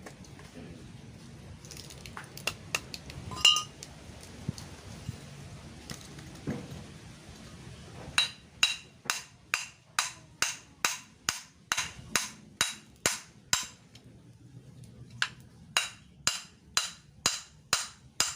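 Hammer blows on the metal of a scrap refrigerator compressor: a few scattered taps and one loud ringing hit, then a steady run of sharp metallic strikes about two a second, a short pause, and another run.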